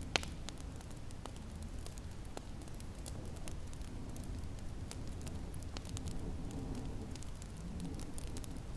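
Wood fire crackling in a fireplace: scattered sharp pops over a steady low rumble of wind.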